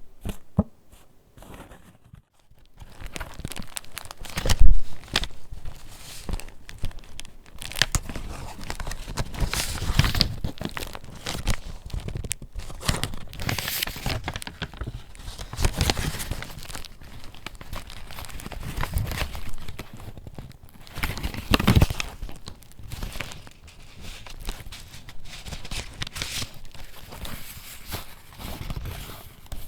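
Paper pages of a handmade junk journal being handled and turned: irregular rustling, crinkling and crackling of paper, with a loud thump about five seconds in.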